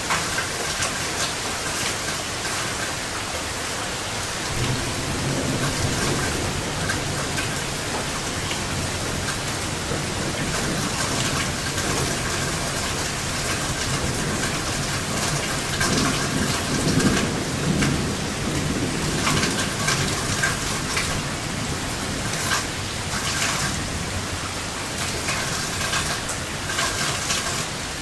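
Steady rain spattering, with a long roll of thunder that starts a few seconds in, swells to its loudest a little past the middle, then dies away.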